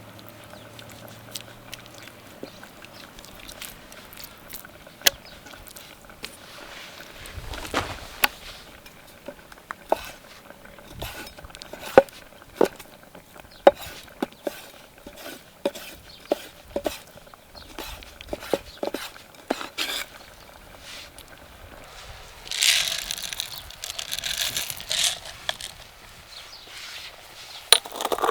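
Utensils clinking and knocking against pots and dishes, in scattered sharp knocks, with a few seconds of denser hissing noise near the end.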